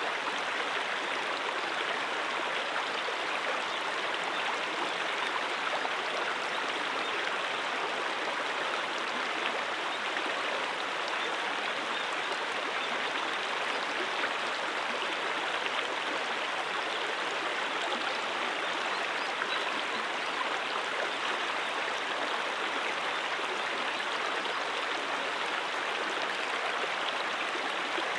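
A brook flowing over rocks: steady, even rushing and babbling of water.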